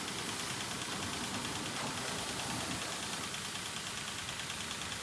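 A small engine running steadily, with an even hiss over it.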